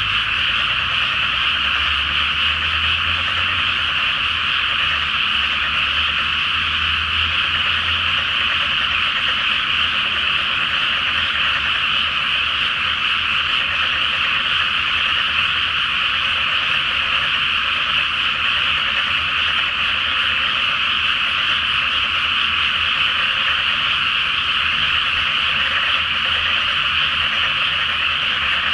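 A dense chorus of frogs in a flooded rice paddy, many calls overlapping into one continuous, unbroken croaking. A low rumble sits underneath for the first several seconds.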